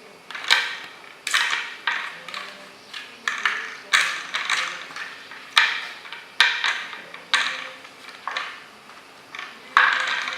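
A cat batting at a mouse-trap toy with a mouse that goes round inside it: more than a dozen sharp knocks and clatters at uneven intervals, each trailing off in a brief rattle.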